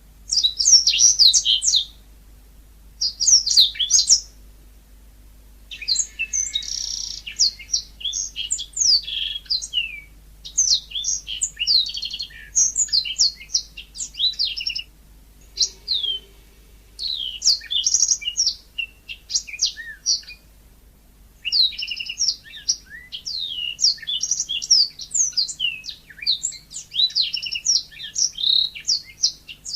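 Yellow-fronted canary (Mozambique canary) singing a fast, high-pitched twittering song in runs of a few seconds, with short breaks between them.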